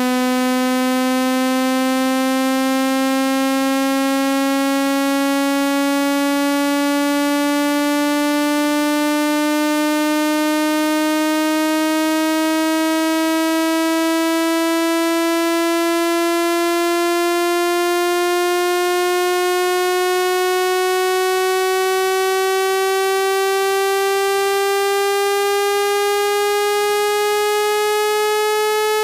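Speaker-cleaning test tone: a steady, buzzy synthesized tone rich in overtones, slowly rising in pitch, played loud to vibrate a phone speaker and shake out water droplets and dust.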